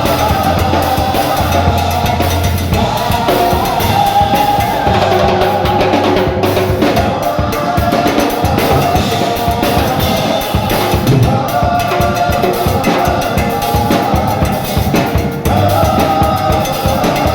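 Band music with a drum kit keeping a steady beat, bass drum and snare under sustained pitched instruments.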